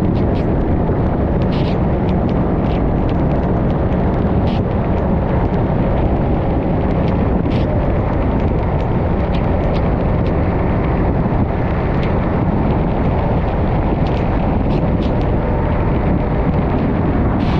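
Wind rushing over a GoPro microphone while riding a Yamaha XMAX 300 scooter at steady speed, with its engine running underneath. Scattered light ticks sound through the rush.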